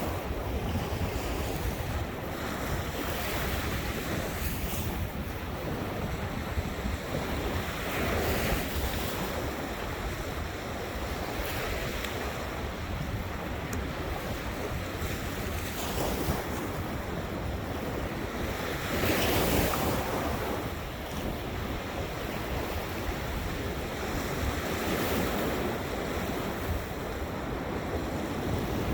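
Ocean surf breaking and washing in, swelling every few seconds, with wind rumbling on the microphone.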